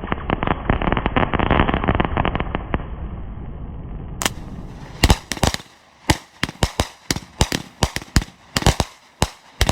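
Fireworks going off: a dense, muffled crackle of rapid-fire bursts, then from about five seconds in separate sharp bangs, roughly two a second.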